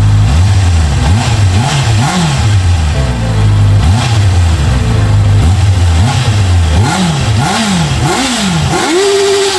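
Motorcycle engine idling, then free-revved in a run of quick throttle blips, each rising and falling. It idles again, is blipped several more times, and near the end is held briefly at high revs.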